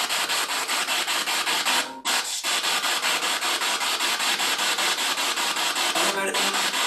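Spirit box sweeping through radio stations: a steady hiss of static chopped about five or six times a second. It briefly cuts out about two seconds in, and a short fragment of broadcast sound comes through near the end.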